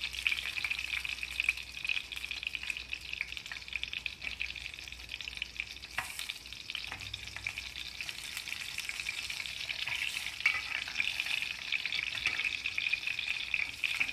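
Small stuffed brinjals sizzling steadily in oil in an aluminium pot on low heat, with a steel spoon turning them and clicking against the pot a few times.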